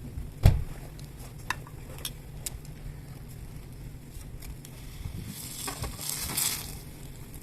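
Cooking-utensil knocks and clicks at a small fire pit: one sharp knock about half a second in, a few lighter clicks after it, then about a second of hiss near the end.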